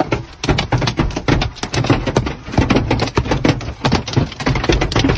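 Rapid, irregular cracking and knocking, many sharp strikes a second over a low rumble.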